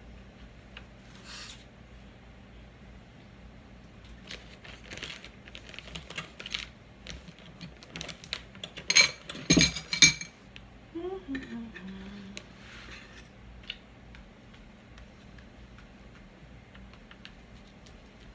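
Metal utensils clinking and knocking against cookware, with a loud burst of ringing metallic clatter about nine seconds in.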